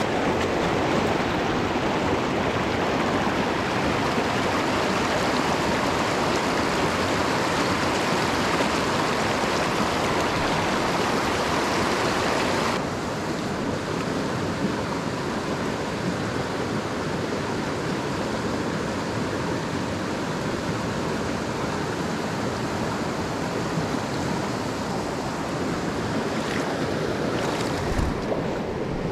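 Rushing water of a mountain stream, a steady hiss. It drops suddenly to a quieter, duller rush about halfway through, and there is a faint knock near the end.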